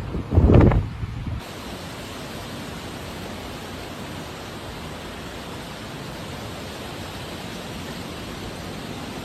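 Wind buffeting the microphone in a short loud gust, then, starting abruptly about a second and a half in, a steady even rushing hiss.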